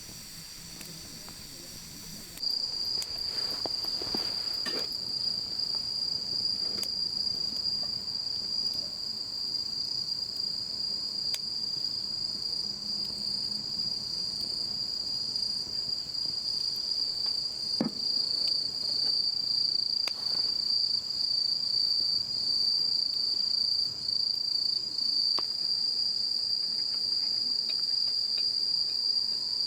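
Bell crickets (suzumushi) singing in a steady, high-pitched chorus that starts suddenly about two seconds in, with a few faint clicks here and there.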